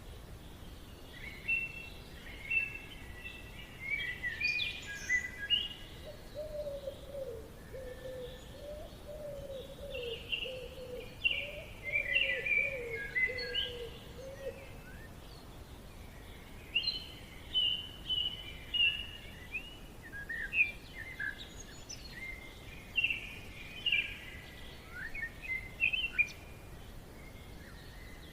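Forest birds singing: many short, high chirping and trilling phrases that come and go throughout, over a faint steady background hiss. A lower, wavering call runs for several seconds about a quarter of the way in.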